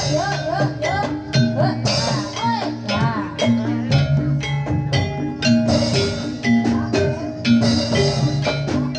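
Live Javanese jathilan music: drums and struck percussion keep a steady rhythm under held pitched notes, with a melody line that swoops up and down in pitch.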